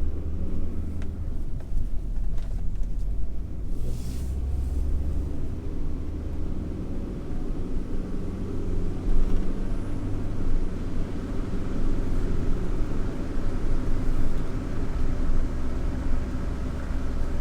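Steady road and tyre rumble from a car being driven, heard from inside the cabin, with no wheel-bearing hum: the bearing has just been replaced and the noise is gone.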